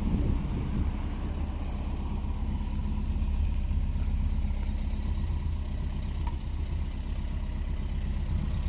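Toyota KP61 Starlet's four-cylinder engine, breathing through Solex carburettors and an aftermarket muffler, idling steadily with an even exhaust pulse.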